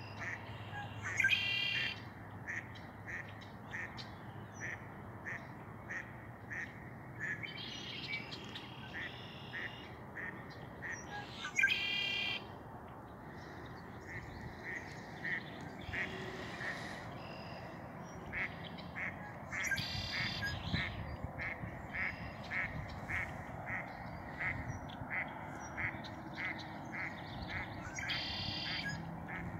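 Red-winged blackbirds calling: a steady run of short, sharp notes about two a second, broken every few seconds by a louder, harsh, buzzy song burst.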